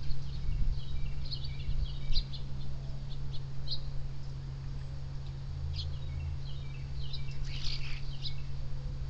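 Backyard birds chirping in short, scattered high notes, with one harsher, noisier call about three-quarters of the way in, over a steady low hum.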